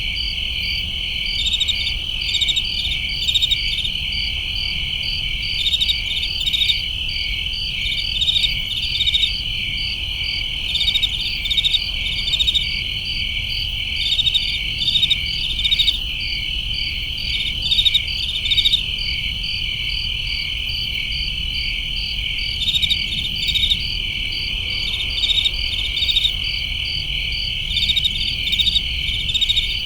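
Crickets chirping: a steady, high, unbroken trill with rhythmic bursts of chirps repeating over it every second or so.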